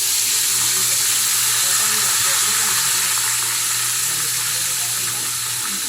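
Chicken deep-frying in hot oil: a steady, loud sizzle. Under it runs a low steady hum that stops near the end.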